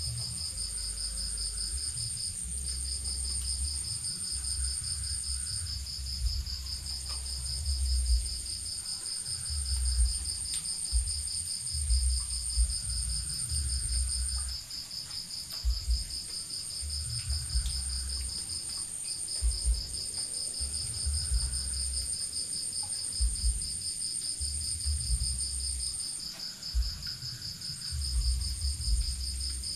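Insects trilling without letup: two steady, rapidly pulsing high-pitched trills, one higher than the other, each breaking off briefly a few times. Irregular low rumbles come and go underneath and make the loudest moments.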